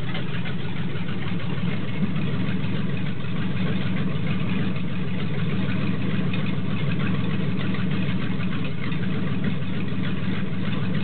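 1966 Chevelle 300's 427 big-block V8 idling steadily, with no revving.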